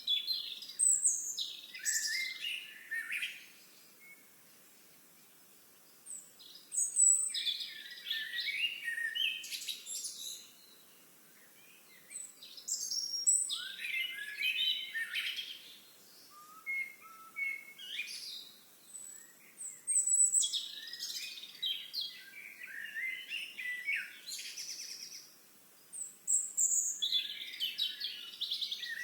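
A songbird singing: a run of rapid, warbling phrases a few seconds long, repeated about every five seconds with short pauses between them.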